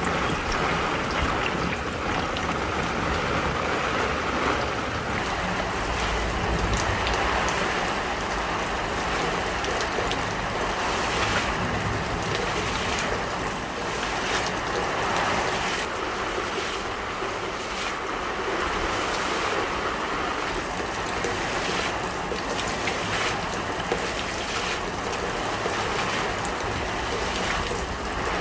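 Heavy rain pouring down steadily, a dense even hiss of falling water with scattered sharper drop hits.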